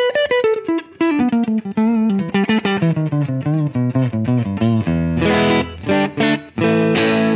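Electric guitar played through a Poly Verbs reverb pedal: a fast run of picked single notes falling in pitch, then a few chords struck from about five seconds in.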